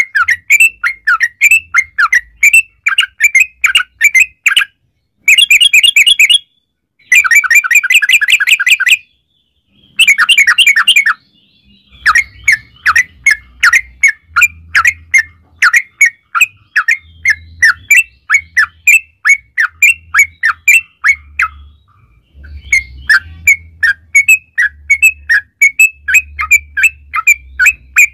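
Yellow-vented bulbul (trucukan) singing a fast, chattering string of short notes. About a third of the way in come several long rapid rolling trills (the 'ropel'), separated by short silent breaks, before the quicker chattering resumes.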